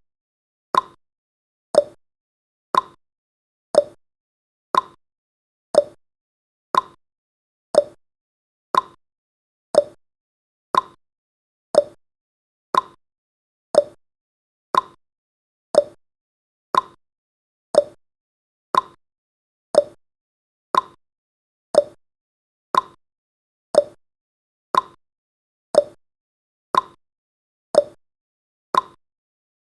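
Countdown timer's tick sound effect: one short, sharp clock-like tick every second, in a steady rhythm.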